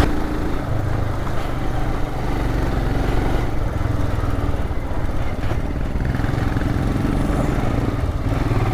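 Motorcycle engine running steadily under load while climbing an uphill road, heard from on the bike.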